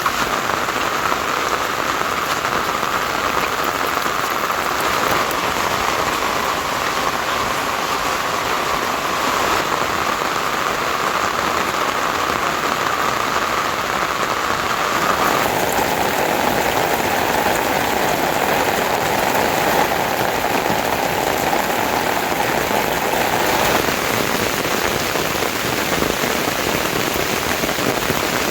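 Steady rain falling, a dense even hiss; about halfway through its tone shifts slightly lower.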